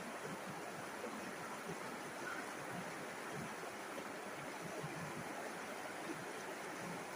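River water flowing and babbling over stones, a steady rushing sound.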